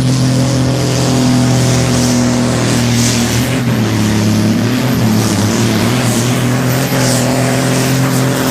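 Diesel engine of a Super Sport class pulling tractor running loud and steady, its pitch wavering briefly about halfway through.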